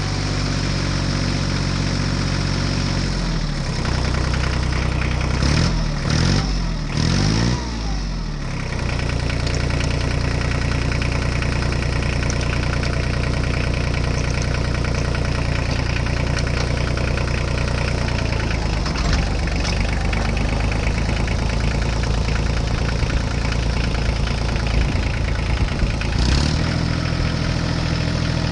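Small engine of a DIY mini tractor running. It is revved up and down a few times about four to eight seconds in, then runs steadily.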